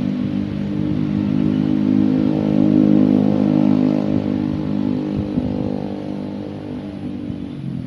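Motor vehicle driving past, its engine note swelling to a peak about three seconds in and then fading away.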